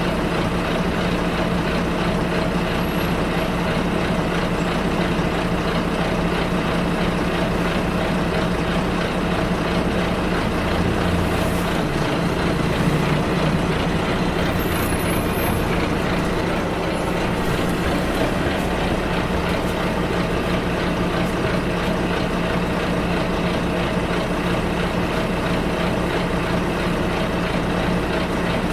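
Bus ride heard from inside the bus: the engine runs steadily under constant road noise. About halfway through, the engine note changes briefly, with a few faint high squeaks just after.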